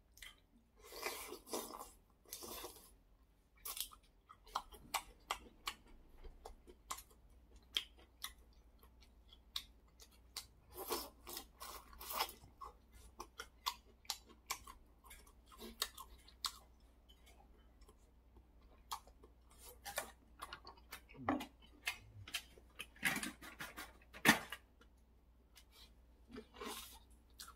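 A person chewing a spicy noodle soup close to the microphone: wet, irregular mouth clicks and smacks, with a few longer, louder noisy sounds in between.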